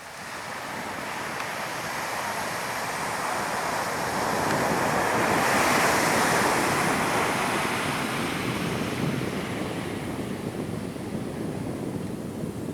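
Jet airliner passing low overhead: a rushing noise that swells to a peak about six seconds in, then slowly fades.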